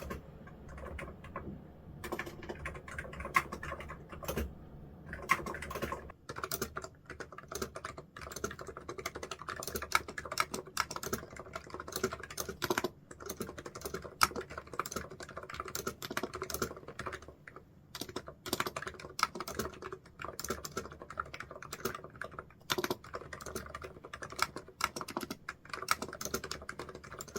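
Typing on a computer keyboard: a long run of fast, irregular key clicks with short pauses.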